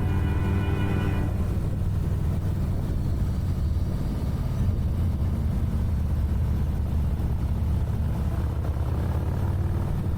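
Harley-Davidson motorcycle engine running steadily under way, a deep, even rumble.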